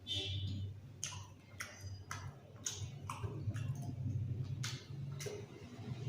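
A person chewing food close to the microphone, with irregular sharp mouth clicks and smacks about one or two a second over a steady low hum.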